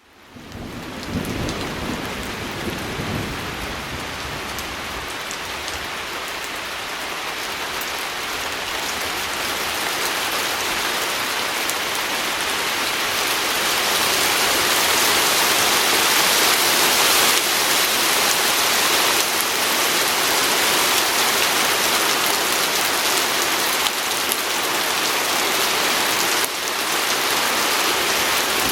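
Steady rain pattering on a window pane, fading in at the start and slowly growing louder, with a low rumble in the first few seconds.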